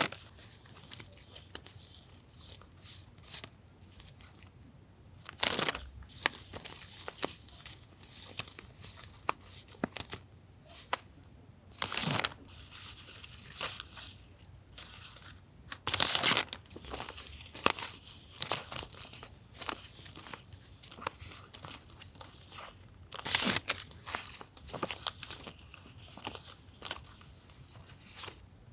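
Paper and plastic stationery packaging being handled: soft rustling and crinkling with small taps, broken by about five louder crinkles or rips a few seconds apart.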